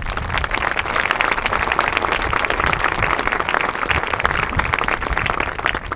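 Crowd applauding: many people clapping at once in a dense, steady patter.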